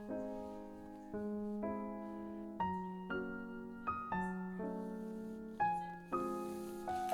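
Gentle background piano music: a slow melody over held chords, each note struck and fading.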